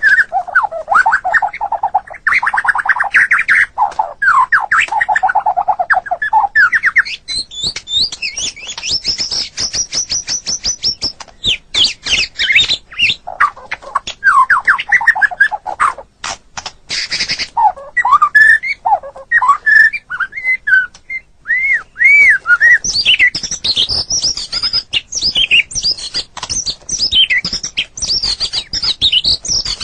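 White-rumped shama (murai batu) singing a long, varied song: rich low warbles, fast high trills and looping whistled phrases, with a short run of harsh rattling notes about halfway through.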